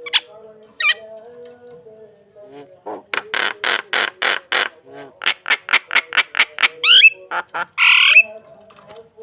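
A starling (jalak) calling: two short chirps, then long runs of rapid harsh chattering notes, a few down-slurred whistles and a loud harsh squawk near the end. A faint steady hum runs underneath.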